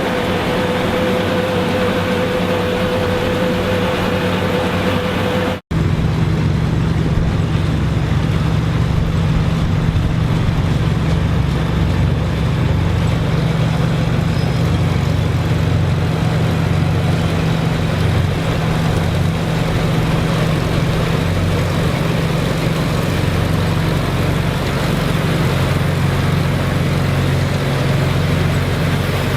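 Farm machinery engine running steadily, with a steady whine over it. About six seconds in the sound cuts out for an instant and comes back as a deeper steady engine hum without the whine.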